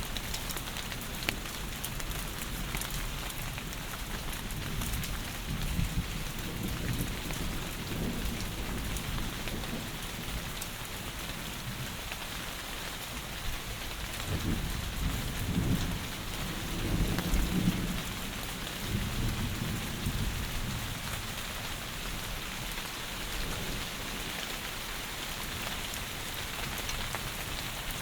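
Heavy rain falling steadily in an even hiss. About halfway through, a low rumble of thunder swells for several seconds and fades.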